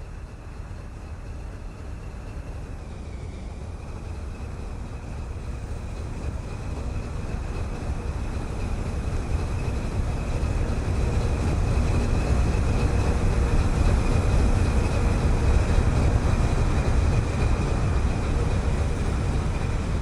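Diesel-electric freight locomotive leading a manifest train, running with a low rumble that grows louder over the first dozen seconds as it approaches and then holds. A thin, steady high whine sounds over the rumble throughout.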